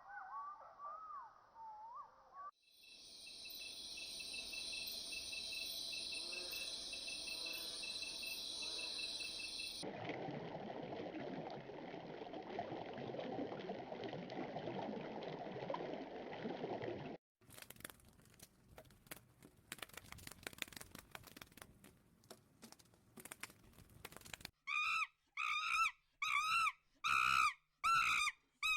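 A run of separate animal sound clips: a short warbling call, a steady high-pitched buzz, a lower rough noise, rapid clicking, then a series of repeated calls about one a second near the end.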